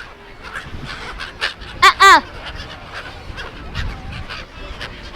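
Gulls calling: two loud, harsh calls close together about two seconds in, the second falling in pitch at the end, over a steady background of noise and faint calls.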